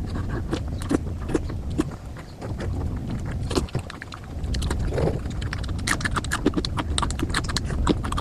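Close-miked eating sounds: wet chewing, lip smacks and mouth clicks, irregular and coming thick and fast in the second half, as someone eats fried Indian flatbread with potato curry.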